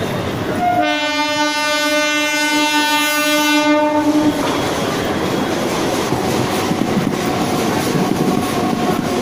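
Suburban electric local train sounding its horn in one long blast of about three and a half seconds, starting just under a second in, then its coaches running past close by with wheel clatter.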